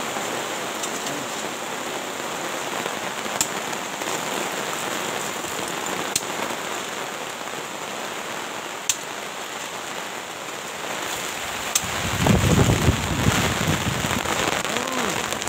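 Steady rain falling, a dense even hiss with a few sharp ticks scattered through it. About twelve seconds in it grows louder and heavier in the low end.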